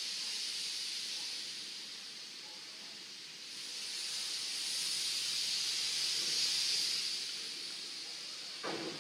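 Steady hiss of venting pressure that grows louder through the middle and then eases off, with a short knock near the end.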